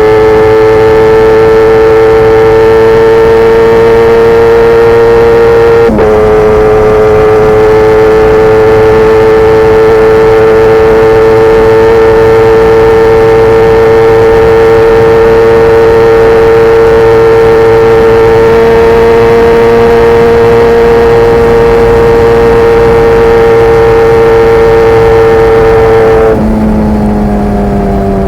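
Kawasaki ZX-10R inline-four engine through an SC Project CRT carbon exhaust, running loud and held at a steady high pitch under way. There is a brief break in the note about six seconds in. Near the end the pitch falls and the sound quietens as the throttle closes.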